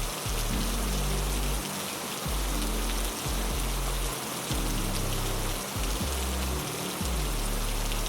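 Steady heavy rain hiss with a slow, low music line under it: held deep notes that change about every one to two seconds.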